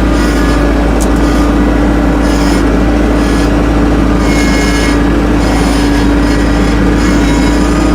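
Tractor engine running steadily under load while driving, with a recurring high clatter about once a second from the chained tires turning.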